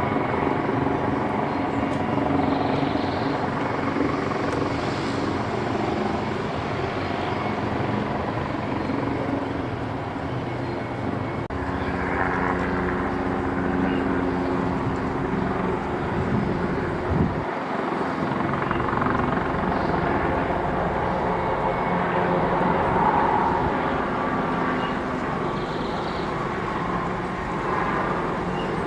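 Airbus Helicopters H225M running steadily, the whine of its twin turbine engines over the rotor noise, with one brief sharp knock about seventeen seconds in.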